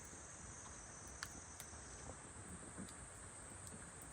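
Quiet outdoor background with a faint, steady, high-pitched insect chirring and a few faint clicks.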